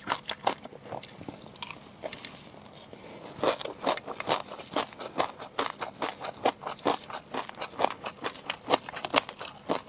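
Close-miked eating sounds: quick runs of sharp, wet chewing and mouth clicks while seafood is eaten, easing off about a second in and picking up again after about three seconds.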